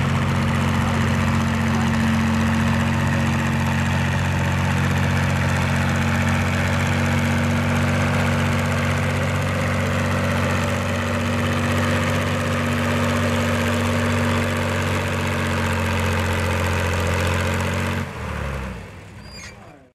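Farm tractor engine running at a steady speed while pulling a weight sled, holding an even pitch. About eighteen seconds in, the sound drops off sharply and fades away.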